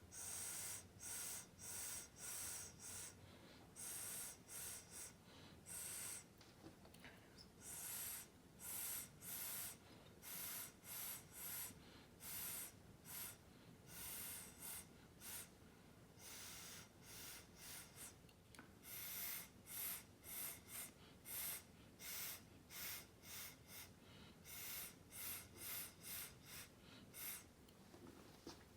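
Repeated puffs of breath blown hard through pursed lips, coming irregularly about once or twice a second, a few drawn out to about a second. It is a person blowing thinned acrylic paint across a canvas by mouth in a Dutch pour.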